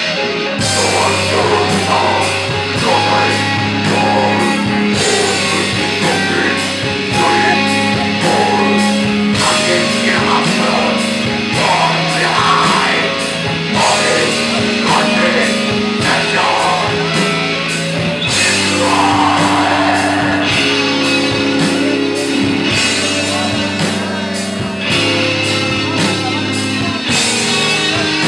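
Death metal band playing live: heavily distorted electric guitars and bass over fast, dense drumming.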